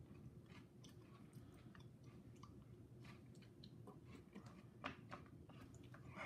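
Faint chewing of spoonfuls of crunchy cereal, with small scattered clicks of a metal spoon in a paper cup and one slightly louder click about five seconds in.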